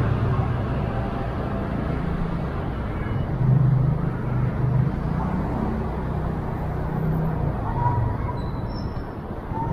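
Steady street traffic noise, a low rumble of passing vehicles, with a few faint short high tones near the end.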